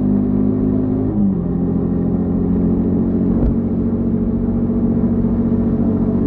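Yamaha XTZ 150 Crosser S single-cylinder engine running on the road. The engine note drops about a second in, then holds steady.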